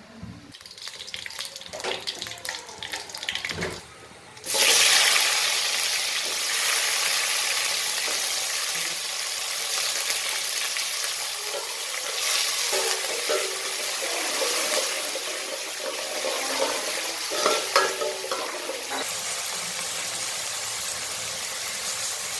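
A few light utensil clicks, then about four and a half seconds in a loud frying sizzle starts abruptly in a cooking pan and carries on steadily, with the scrape and clink of stirring over it.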